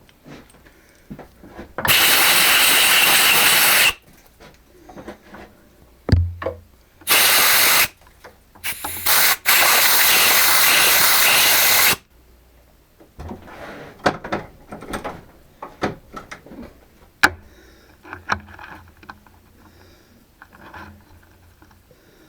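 Compressed air blowing chips off a freshly drilled and tapped steel block, in four hissing blasts: about two seconds, then one second, a brief one, and about two and a half seconds. Light clicks and knocks of the part being handled follow.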